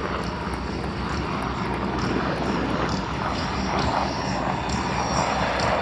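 Sikorsky MH-60T Jayhawk helicopter flying in, its rotor and twin turboshaft engines making a steady, fairly loud noise.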